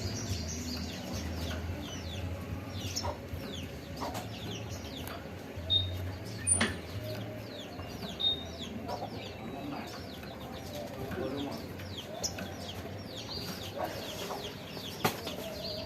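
Fledgling small birds chirping: many short falling chirps, several a second, with a few sharp clicks.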